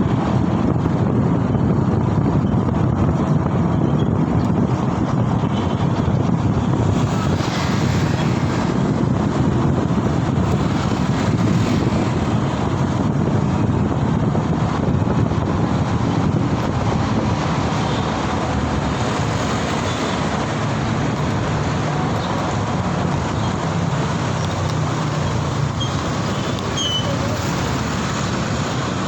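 Steady city traffic noise heard while riding: the running rumble of engines and tyres on the road, with some wind on the microphone.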